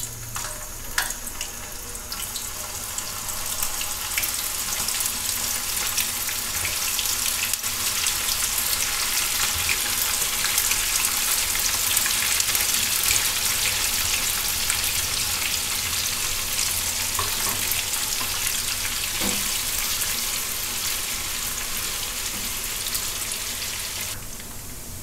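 Squeezed soya chunks sizzling as they deep-fry in hot oil. The sizzle builds over the first few seconds, holds steady, and eases off near the end.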